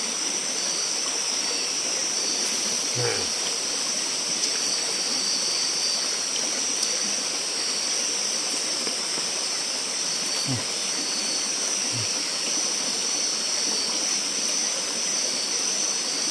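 Night forest ambience: a steady, high-pitched insect chorus over the even rush of flowing stream water.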